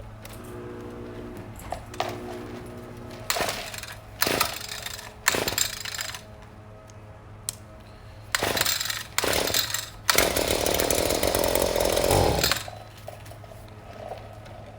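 Echo SRM-2620 string trimmer's two-stroke engine being pull-started cold: five short cord pulls, then about ten seconds in it fires and runs for about two and a half seconds before cutting out.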